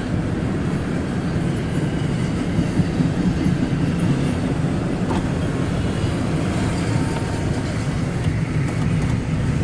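CSX intermodal freight train rolling past: a steady noise of steel wheels running on the rails, heaviest in the low range, with no single event standing out.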